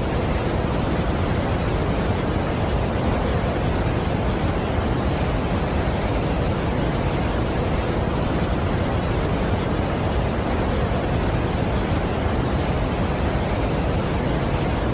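Steady, unbroken rush of a large waterfall: a dense, even noise, deepest and strongest in the low end, with no change in level.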